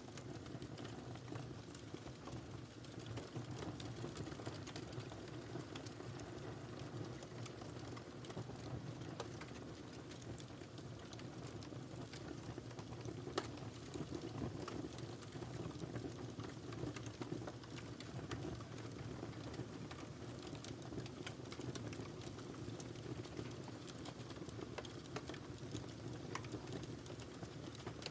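Wood fire crackling in a fireplace: a steady low rush of flames with scattered small snaps and pops, one sharper pop about halfway through.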